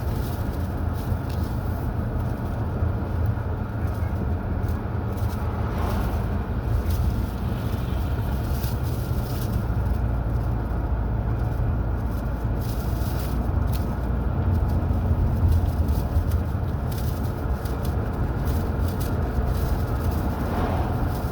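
Car driving at a steady pace: continuous low road and engine rumble.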